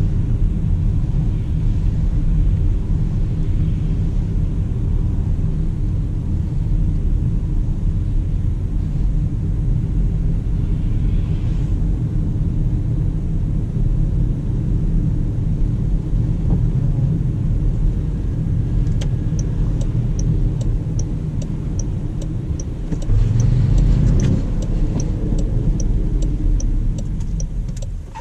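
Steady low road and tyre rumble of a 2019 Jaguar I-Pace electric SUV being driven, with no engine note. It swells louder for about a second near the end. A regular ticking about twice a second joins about two-thirds of the way in.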